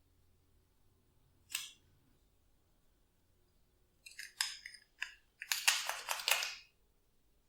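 Glossy slime being squished and pressed by hand, giving short sticky crackles and pops: one about a second and a half in, then a run of them from about four seconds in.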